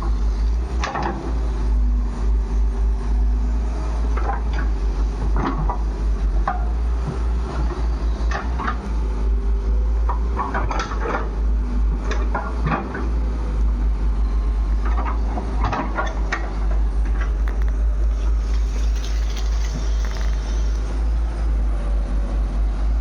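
Diesel engine of a JCB 3DX backhoe loader running steadily while it digs and loads mud, with repeated metallic clanks and knocks from the bucket and loader arm.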